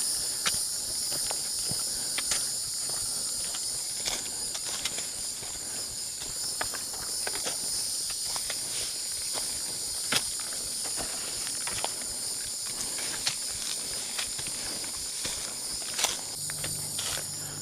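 Footsteps crunching along a trail at an uneven pace, over a steady high-pitched chorus of evening insects.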